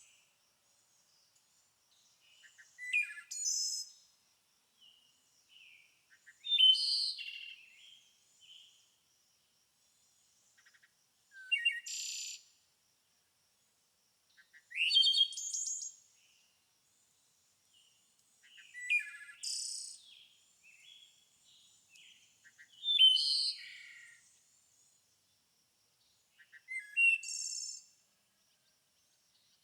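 A songbird singing short, high, quick phrases, one about every three to four seconds, with silence between them.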